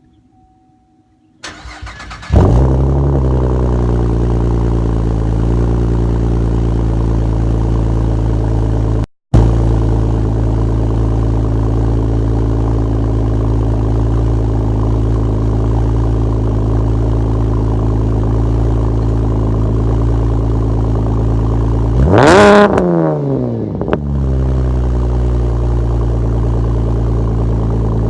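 2010 Chevrolet Camaro's 3.6-litre V6 with glass-pack mufflers cold-starting: a short crank about a second and a half in, catching with a loud burst, then idling steadily. Near the end it is revved once, the pitch rising and falling, before settling back to idle.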